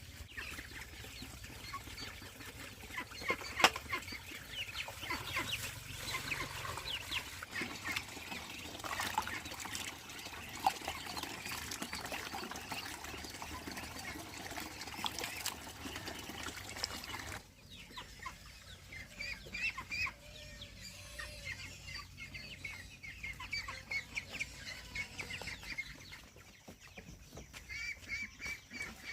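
Chickens clucking on and off, with a few sharp knocks; the background changes suddenly about two-thirds of the way through.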